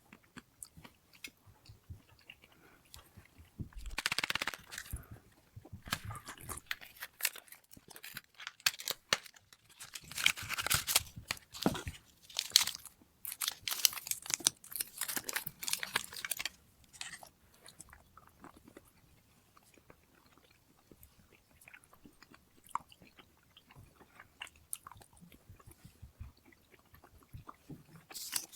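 A person eating close to the microphone: crunchy bites and chewing, with loud clusters of crunching about four seconds in and again through the middle, then quieter chewing towards the end.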